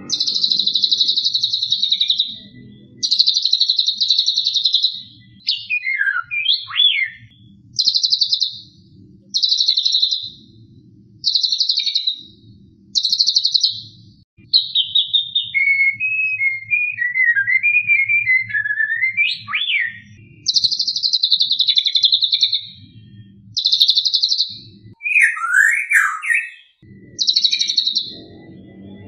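White-rumped shama (murai batu) giving its harsh rattling 'kretekan' call over and over, each rattle lasting a second or two. The rattles are broken up by whistled notes that slide up and down, including one long wavering whistle in the middle.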